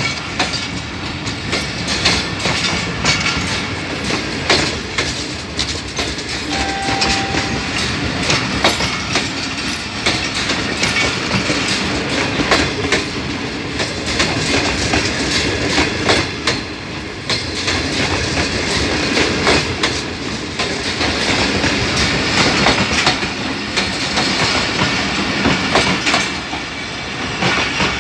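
Passenger coaches of a departing express train rolling past close by, their wheels clattering over the rail joints in a steady run of clicks.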